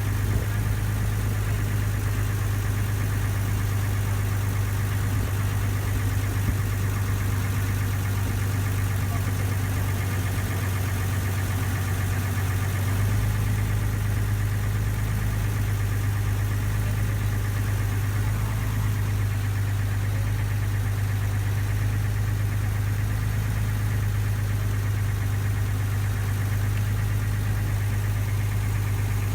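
A ferry's engine running steadily with a strong low hum.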